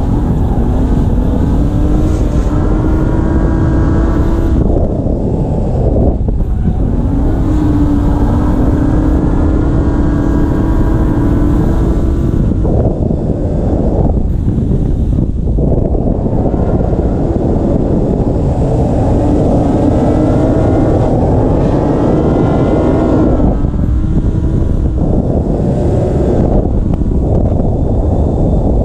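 BMW E46 ZHP's swapped-in S54 3.2-litre straight-six working hard during a drift run. Its note climbs and sags, with short drops off the throttle several times, under heavy wind rumble on the microphone.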